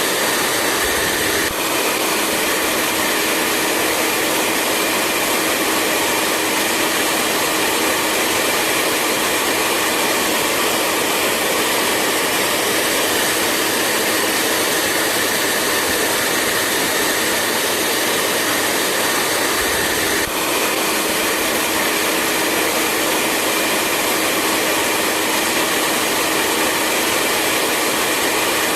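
Hair dryer running steadily: a continuous rush of blown air with a faint low hum from the motor. There is a tiny hitch in the sound about one and a half seconds in and again about twenty seconds in.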